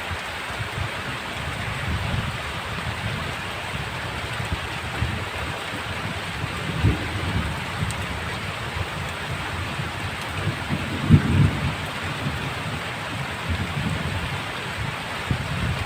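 Heavy rain falling steadily as a dense hiss, with low thunder rumbling underneath; the strongest rumble comes about eleven seconds in.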